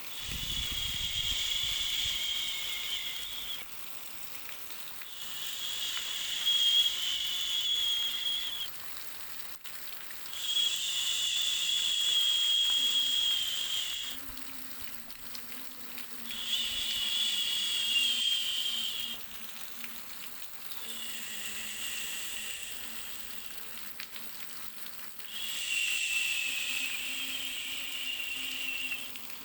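Baby-soothing noise track: a hiss with a whistling tone that swells and fades in a steady rhythm, six swells of about three to four seconds each with short pauses between. A faint low hum joins about halfway through.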